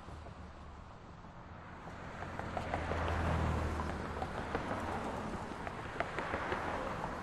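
City street traffic: a vehicle passes, its engine rumble and tyre noise swelling to a peak about halfway through and then fading, over a steady traffic hum with a few small sharp clicks.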